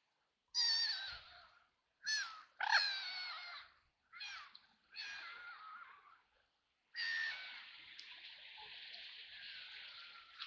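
White ducks quacking: about five separate harsh calls with short pauses between them, then an unbroken stretch of sound from about seven seconds in.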